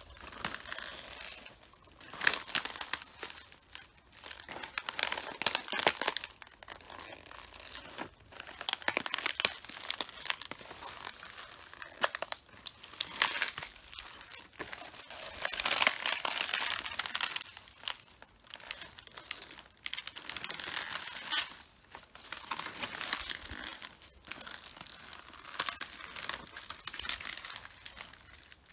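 Footsteps crushing red cabbage, the leaves crackling and tearing under each step. The steps come irregularly, about one every one to two seconds.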